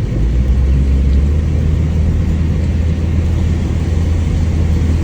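Mitsubishi Lancer on the move, heard from inside the cabin: a steady low drone of engine and road noise under an even hiss.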